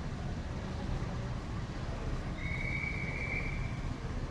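Busy city-street ambience: a steady low rumble of traffic. About two and a half seconds in, a single high steady tone is held for just over a second.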